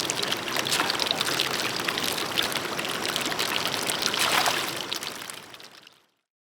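Water running and splashing with many small spatters, fading out near the end.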